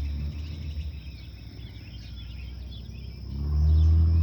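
Birds chirping over a steady high insect drone. A low engine rumble from a passing vehicle builds in the last second or so and becomes the loudest sound.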